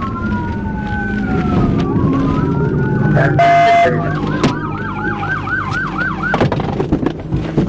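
Police cruiser siren in pursuit: a slow rising-and-falling wail, a short steady horn-like blast about three and a half seconds in, then a fast yelp of about four sweeps a second that cuts off a little over six seconds in, over the cruiser's engine and road noise.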